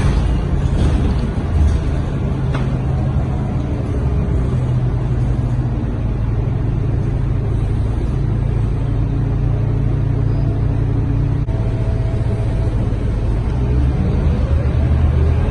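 Scania K230UB bus's nine-litre five-cylinder diesel engine running steadily under way, heard from inside the passenger cabin with a low rumble, its pitch rising near the end as the bus accelerates.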